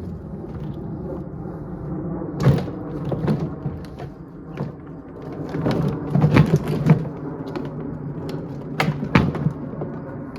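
Scattered knocks and bangs, with a cluster of them near the middle, as a plastic portable washing machine is being broken apart, over a steady low rumble.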